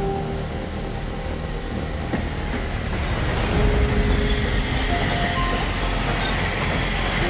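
Train running on the rails, a steady low rumble that grows louder from about three seconds in, with short high thin tones over it like wheel squeal.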